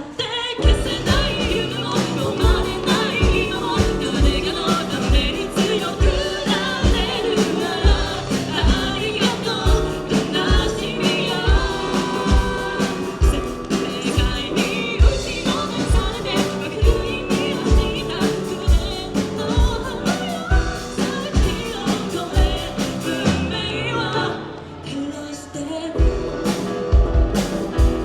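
Live band playing a pop song with singing over a steady kick-drum beat, about two beats a second; the music thins out briefly about 24 seconds in.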